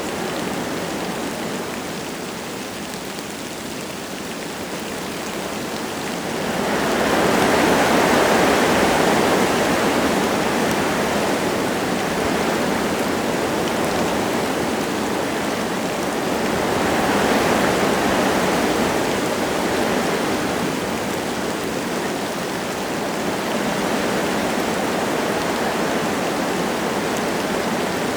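Wind gusting through forest trees, with light rain falling. A louder gust swells up about a quarter of the way in, and another rises a little past the middle.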